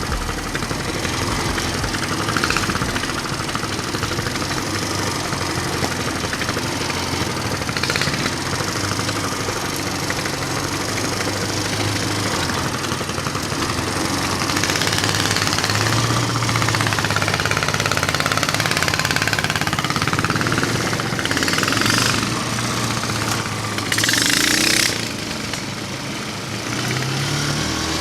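Single-cylinder 420 engine of a mini bike trike running under way, its pitch rising and falling as the throttle is worked. About twenty-four seconds in there is a loud rushing burst lasting about a second.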